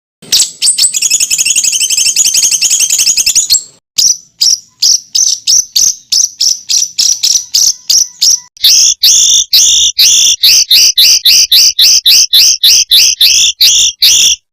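Songbird calls in rapid-fire 'tembakan' phrases, of the kind played as masteran for competition birds: a dense high trill for about three seconds, then a quick series of sharp repeated notes that turns, past the middle, into loud two-part notes about four a second.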